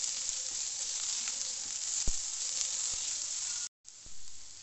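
Chopped onion, ginger, green chillies and curry leaves sizzling steadily in hot coconut oil in a stainless steel pan, with a single light knock about two seconds in. The sizzle breaks off suddenly near the end and comes back quieter.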